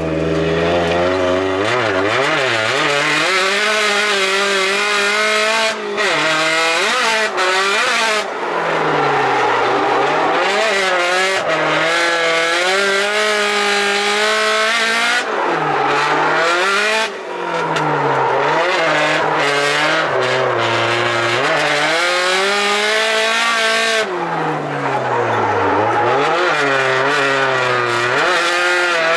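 Turbocharged drift car's engine revving hard, its pitch climbing and falling again and again, with several brief dips where the throttle lifts, and tyres squealing.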